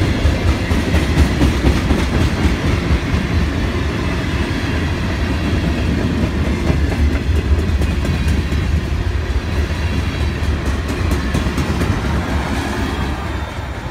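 Freight train's tank cars and covered hopper cars rolling past close by: a steady low rumble of steel wheels on rail, with a run of clacks as the wheels cross rail joints.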